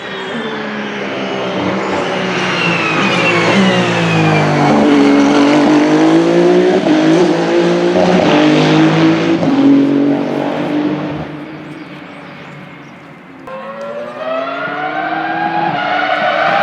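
A Ferrari race car passing at speed on track. Its engine note falls and then rises in pitch as it goes by, and it is loudest in the middle before fading away. About thirteen and a half seconds in, another engine cuts in suddenly, rising in pitch as it accelerates.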